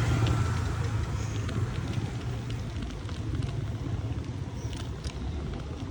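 Motor vehicle engine running with a steady low rumble that slowly fades.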